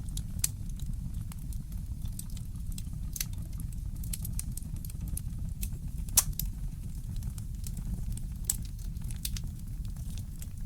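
Wood fire crackling in a fireplace: scattered sharp pops and snaps, the loudest about six seconds in, over a steady low rumble.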